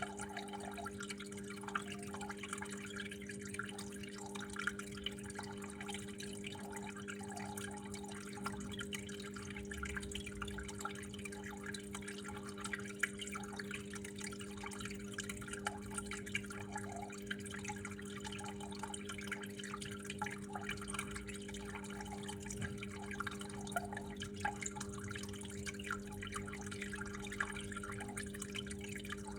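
Water flowing and dripping steadily, with many small irregular drips and splashes over a low, steady hum.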